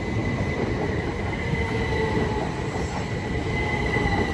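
Southeastern Class 375 Electrostar electric multiple unit passing through the station: a steady rumble of the train on the track with a high-pitched whine held throughout.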